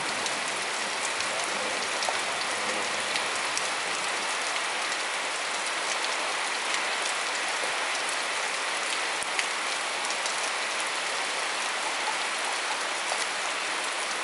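Heavy rain falling steadily: a dense, even hiss with sharp individual drop hits ticking through it.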